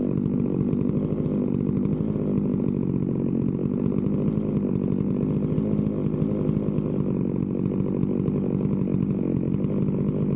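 Holzfforma two-stroke chainsaw on a Granberg chainsaw mill running steadily at full throttle, ripping a board from a log.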